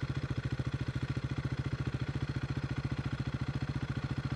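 KTM RC 390's single-cylinder engine idling steadily through an SC Project slip-on exhaust with a dB killer fitted, a fast even exhaust beat that holds a constant rate.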